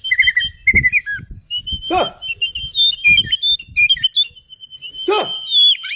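White-rumped shama (murai batu) singing a fast run of varied, whistled notes. Two louder swooping calls come about two and five seconds in, with a few low knocks in the first half.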